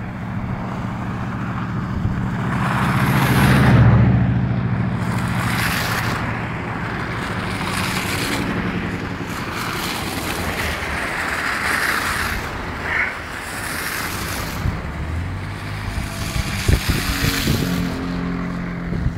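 Blizzard wind blows in rushing gusts that swell and fade about six times, the strongest a few seconds in. Under them a vehicle engine runs with a steady low hum.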